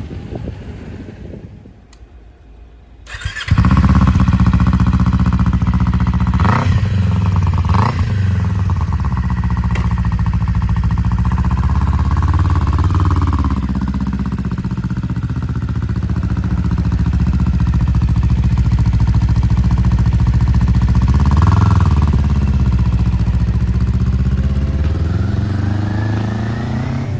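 An engine starts abruptly about three seconds in and keeps running, with a few brief revs, easing off near the end.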